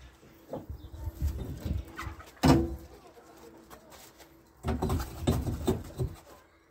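Pigeon cooing steadily behind a series of knocks and thumps, with one sharp, loud knock about two and a half seconds in and another cluster of thumps near the end.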